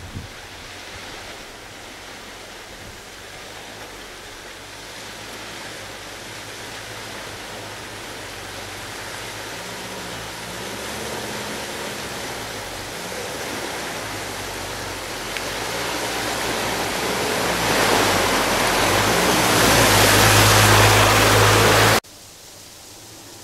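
Off-road SUV driving, its engine note wavering low under a rushing noise of tyres and spray that builds steadily louder, then cuts off abruptly near the end.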